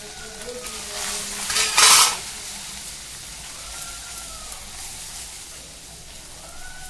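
Powdered spices, onion and ginger-garlic paste frying in hot oil in a kadai, a steady sizzle as a silicone spatula stirs them. A brief louder burst of noise about two seconds in.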